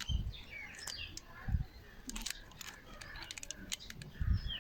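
Sharp clicks and a few dull knocks of small metal parts being handled during starter motor reassembly, with birds chirping in the background.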